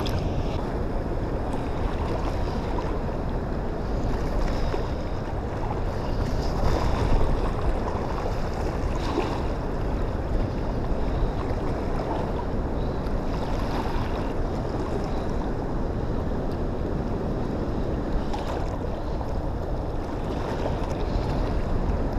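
Wind buffeting the microphone over a steady wash of water, a low, even rumble with no distinct events.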